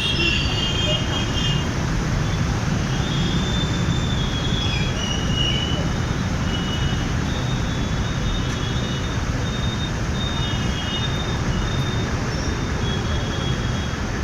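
Steady road and traffic noise heard while riding a motorcycle through city traffic, with wind rushing over the microphone. Short, faint, high horn toots come and go throughout.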